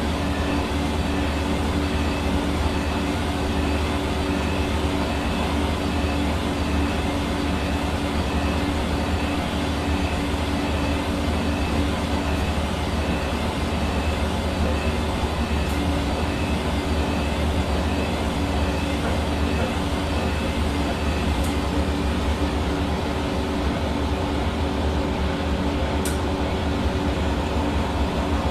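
Hair dryer running steadily: an even rushing of air with a steady motor hum and a faint high whine.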